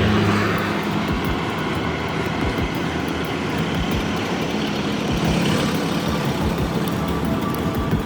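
A vehicle engine running steadily: a low, even hum over rumbling noise.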